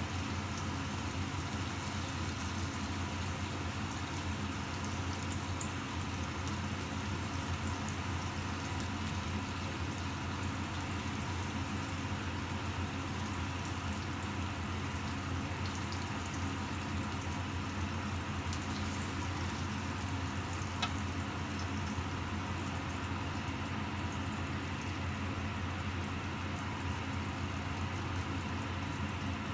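Tandoori-marinated chicken pieces sizzling steadily in a nonstick frying pan, over a constant low hum, with a few faint clicks.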